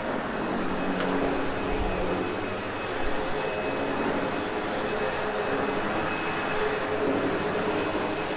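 Sebo X8 upright vacuum cleaner running steadily while vacuuming carpet, its motor noise carrying a faint high whine.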